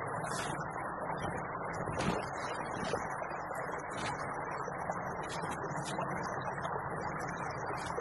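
Steady rush of a small creek flowing, with scattered small clicks and ticks over it.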